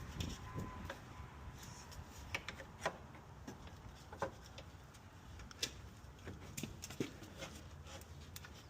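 Scattered light clicks and knocks of hands fitting radiator hoses and parts in a car's engine bay, over a faint steady background.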